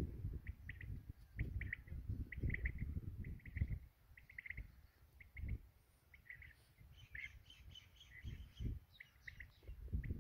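Birds calling in short repeated notes, with a quicker run of higher chirps starting about seven seconds in, over an irregular low rumble.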